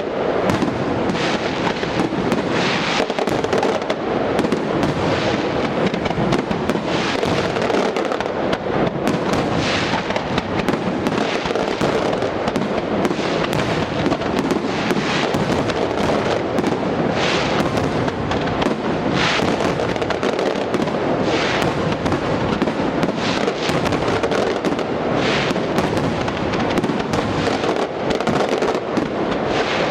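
Fireworks display: a dense, unbroken barrage of bangs and crackling, with louder bursts every second or two.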